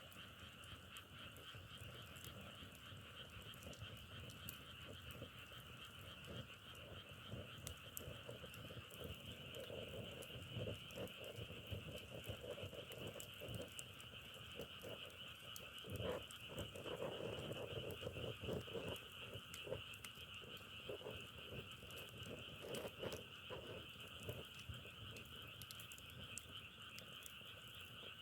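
Chorus of frogs calling: a steady high trilling din, with deeper croaks pulsing through the middle stretch. Faint scattered clicks run through it.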